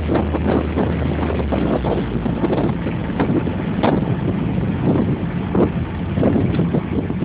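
Triumph Spitfire's four-cylinder engine running while driving, heard from inside the cabin with wind buffeting the microphone in irregular thumps. The engine's low drone changes about two seconds in.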